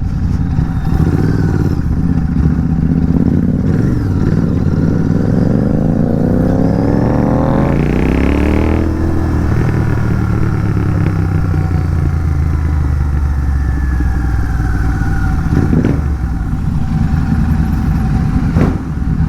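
Royal Enfield Continental GT 650's parallel-twin engine through an aftermarket megaphone exhaust, ridden on the road: the revs climb steadily for a few seconds, drop sharply around the middle at an upshift, then run steadily at lower revs. A couple of short knocks near the end.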